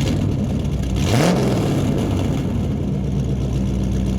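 Vehicle engine just started and running steadily at idle, with a brief rise in pitch about a second in.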